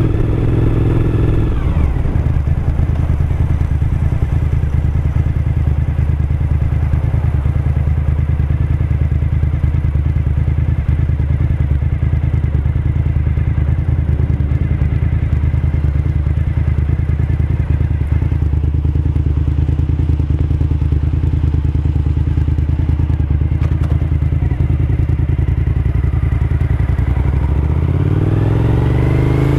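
Suzuki SV1000S V-twin motorcycle engine. Its pitch drops about a second and a half in, holds steady for most of the time, then rises near the end as it accelerates.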